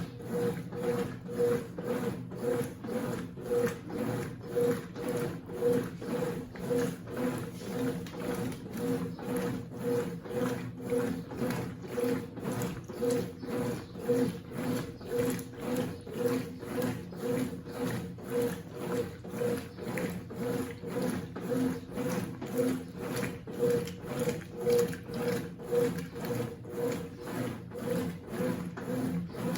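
Consul 8 kg top-loading washing machine agitating its load, the motor hum pulsing in an even rhythm of about one and a half beats a second as the agitator swings back and forth.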